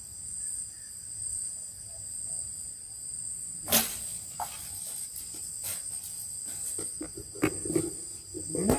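Crickets chirping in a steady high-pitched chorus, with a few sharp clicks or knocks, the loudest about four seconds in.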